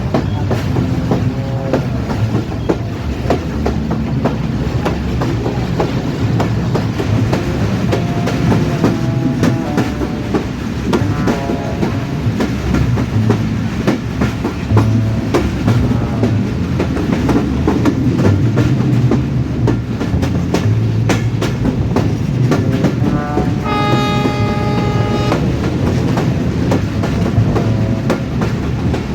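Train running on the rails, a steady rumble with the clickety-clack of wheels over rail joints. A horn sounds once, about 24 seconds in, for a second or two.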